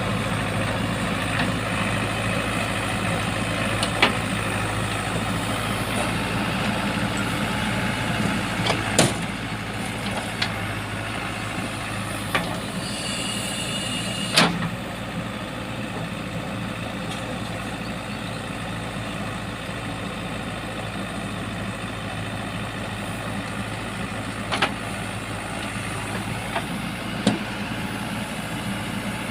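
Heavy diesel engine running steadily at low revs, with a handful of short sharp knocks spread through it and a brief high-pitched tone around halfway.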